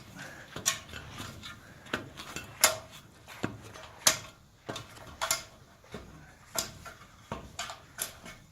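A series of sharp wooden knocks and clatters, roughly one every second, with nothing between them: timber battens being handled and knocked into place on a beam.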